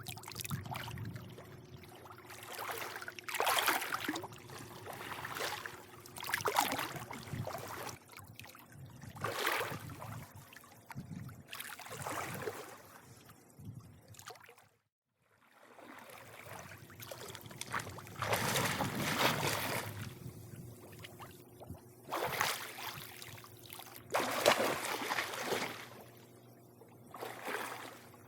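Pool water lapping and sloshing in irregular swells every few seconds, over a faint steady low hum. The sound cuts out completely for about half a second halfway through.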